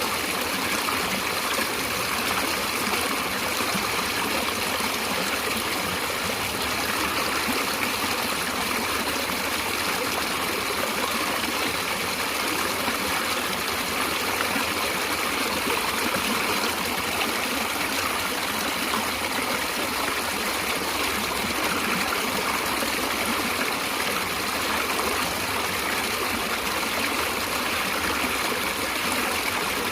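Stream water flowing and trickling, steady and unbroken.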